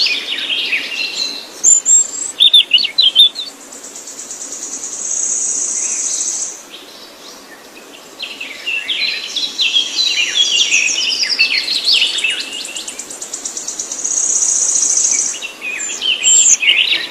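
Songbirds singing: bursts of quick, sharp chirps, twice broken by a long, high, buzzy trill lasting a couple of seconds.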